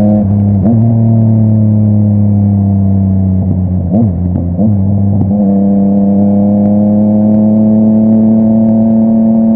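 Yamaha MT-09's three-cylinder engine through a full Akrapovic exhaust, held at steady revs. About four seconds in, the pitch dips and rises quickly a few times as the throttle is rolled off and back on, then it settles back to a steady note.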